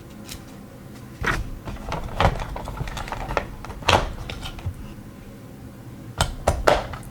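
A nail gel set's plastic packaging and palette being handled: a scattered series of clicks and knocks with some rustling, loudest about four seconds in and with three quick clicks near the end.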